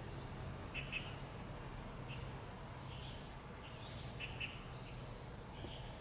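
Small birds chirping in short, scattered calls, over a faint steady low hum.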